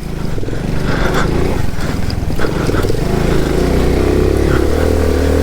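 Moped engine running, with a few short knocks in the first couple of seconds. About three seconds in, it settles into a stronger, steady engine note.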